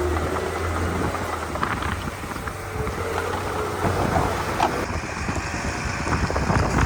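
Komatsu D31P crawler bulldozer's diesel engine running with a low steady rumble, with scattered metallic clanks over it.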